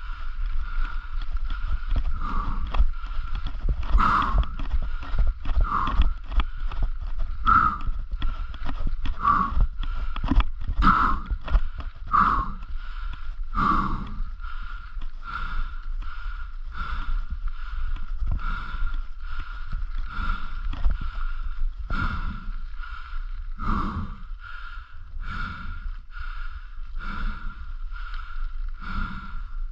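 A cyclist breathing hard in a steady rhythm while pedalling up a steep climb, about one breath every second or two and coming faster later on. A constant low wind rumble on the microphone sits under it.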